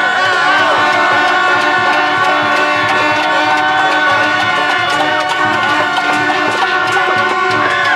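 Loud, continuous celebration din: drumming and several steady held tones with wavering higher pitches over crowd noise.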